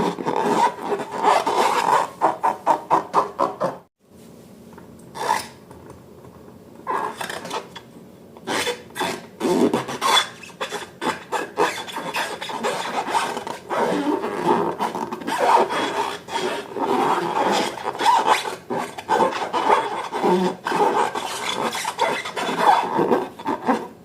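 Slime being worked, a quick run of short rubbing and squishing strokes with clicks. The strokes break off suddenly about four seconds in, come back sparsely, then run densely again for the rest of the time.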